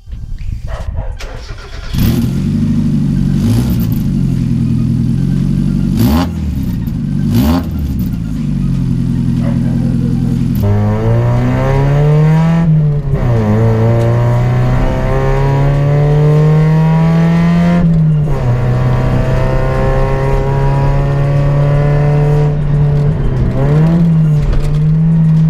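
Mazda Miata's four-cylinder engine running through its newly fitted stock exhaust and catalytic converter, its pitch rising and falling several times. About ten seconds in it grows louder and fuller, then holds a steadier pitch with a few brief dips.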